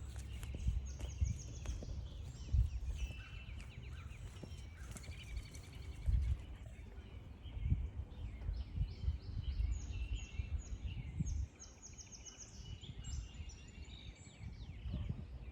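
Several songbirds singing and chirping, with trills of quick repeated notes. Under them, low rumbling and thuds from walking on the trail, which stop about eleven seconds in.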